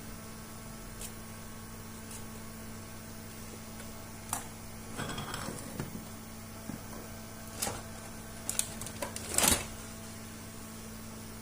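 Scattered clicks and taps of small objects being handled, over a steady electrical hum; a short burst of clatter near the end is the loudest.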